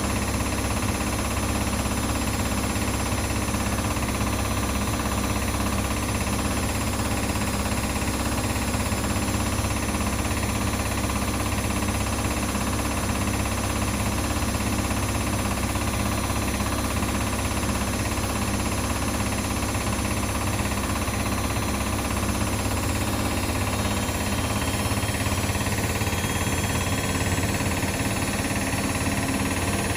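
Household washing machines and tumble dryers running together: a steady, unchanging mechanical hum with vibration.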